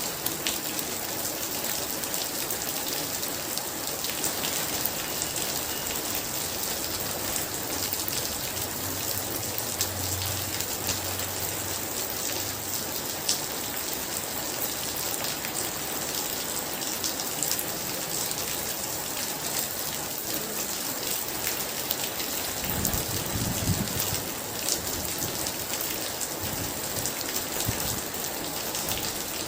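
Heavy rain pouring in a steady, dense hiss of drops on surfaces. Near the end a brief low rumble of distant thunder rolls under it.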